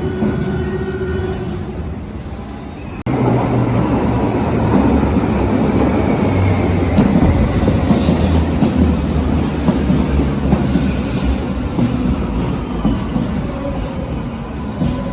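Berlin U-Bahn train running on the rails: a steady hum for the first few seconds, then an abrupt cut about three seconds in to a louder passage of wheels rumbling along the track.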